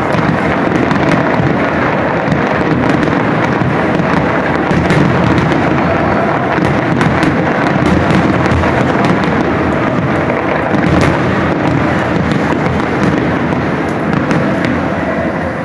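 Fireworks going off in a dense, continuous barrage: many sharp cracks over a steady rumble.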